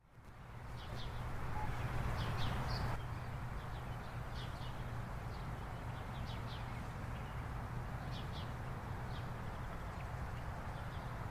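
Small birds chirping, short high calls in clusters every second or two, over a steady low rumble and background hiss.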